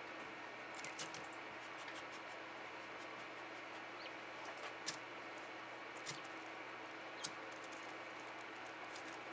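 Japanese quail pecking at seed and at fingers, a scattered handful of light, sharp taps over a quiet room hiss.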